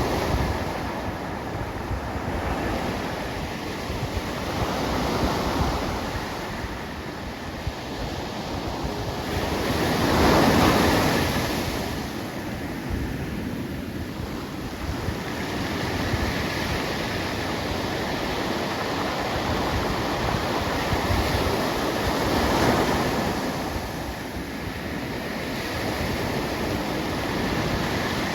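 Pacific Ocean surf breaking and washing ashore in slow swells, the loudest wave about ten seconds in and another around twenty-two seconds, with wind buffeting the microphone.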